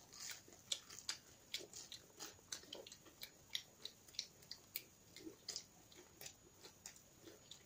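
Chewing and biting chicken nuggets: faint, irregular soft clicks and crunches, about two or three a second.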